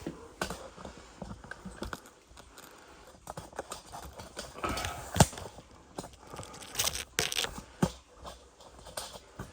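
Handling noises while cleaning a steam boiler's glass gauge tube: scattered taps, clinks and rubbing, with one sharp click about five seconds in.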